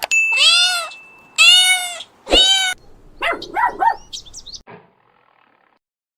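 A cat meowing: three loud, arching meows, then a few shorter, quieter calls that stop about five seconds in.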